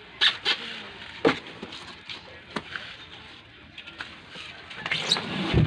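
A few sharp knocks at uneven intervals, then a cluster of clatter ending in a heavier, deeper thump near the end.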